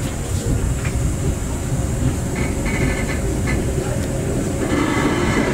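Passenger train pulling away from a station, heard from inside a coach: a steady low rumble of wheels and running gear on the rails. A higher whine comes in briefly twice, in the middle and near the end.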